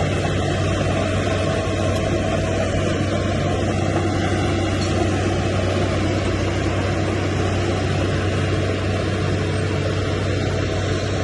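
Heavy diesel engine of earthmoving machinery running steadily at an even speed, with a constant low hum.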